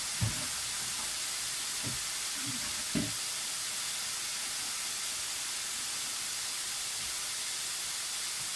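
Chicken pieces sizzling steadily in a pan as adobo cooks, with two short low knocks, one just after the start and one about three seconds in.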